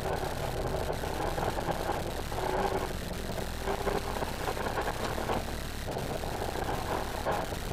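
Renault Mégane R26.R's turbocharged 2.0-litre four-cylinder engine heard from inside the cabin, pulling hard in repeated bursts of a second or two and dropping away between them, about four times.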